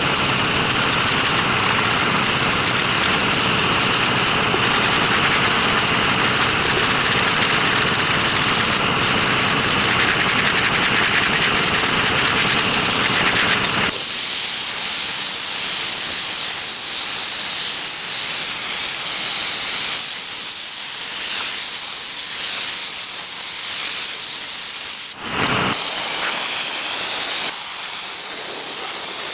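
A cleaning tool's steady hiss of spray. For the first half a lower rumble runs under it. About halfway through the rumble drops away and mostly a high hiss is left, which stops for a moment about four seconds before the end.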